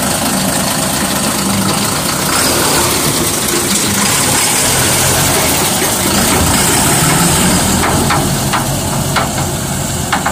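Large six-cylinder truck engine idling steadily, with a run of sharp clicks near the end.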